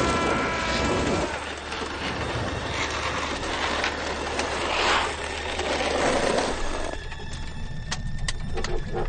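Indian motorcycle running at speed, a loud rushing engine-and-wind noise that swells and fades. About seven seconds in it falls away to a quieter, rhythmic mechanical ticking and pulsing.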